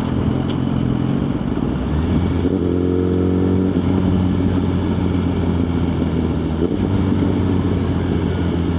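Suzuki GSX-R1000's inline-four engine pulling under steady throttle while riding, with wind rushing over the helmet microphone. The engine note steps up about two and a half seconds in and drops back a second or so later.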